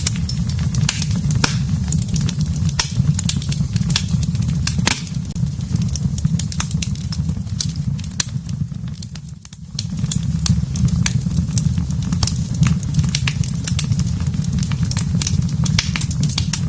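Fire burning in a fireplace: a steady low rumble with frequent sharp, irregular crackles and pops. About nine seconds in it briefly dips quieter, then picks up again.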